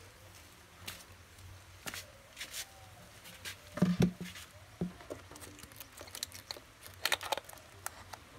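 Scattered clicks, taps and knocks of a speaker unit's parts being handled. There are two heavier knocks about four seconds in and a quick run of clicks about seven seconds in.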